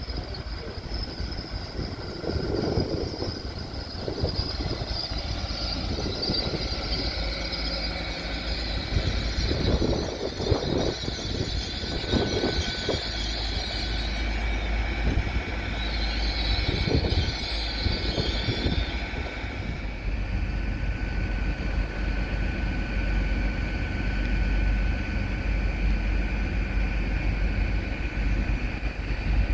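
Train running at a station, a continuous low rumble with a steady high whine that sets in about halfway through.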